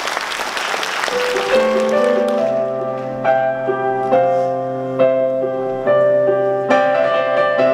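Audience applause dying away over the first two seconds, then a piano plays a slow intro, striking chords about once a second that ring on.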